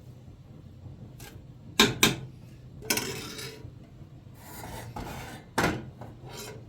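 Household objects being handled: a low background hum with two sharp knocks in quick succession about two seconds in, rubbing and scraping after them, and another knock near the end.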